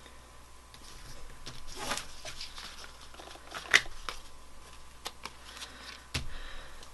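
Paper and ribbon being handled and pressed down: light rustling with scattered small clicks and taps, the sharpest a little before four seconds in, and a soft thump near the end.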